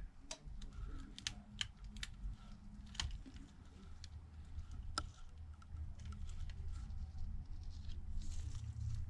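Scattered light clicks and ticks, with faint crinkling, from small tools and parts being handled during a smartphone screen repair, over a low steady hum.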